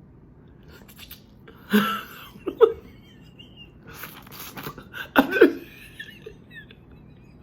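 Loud mouth sounds from eating boiled crawfish: sharp sucking and slurping in two clusters, about two seconds in and again about five seconds in.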